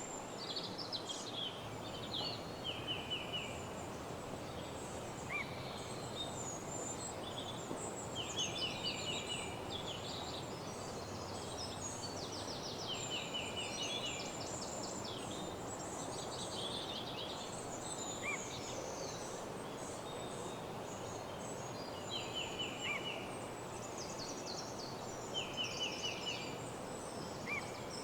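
Woodland birds singing in a morning chorus: many short overlapping songs and rapid ticking trills from several birds, over a steady background hiss.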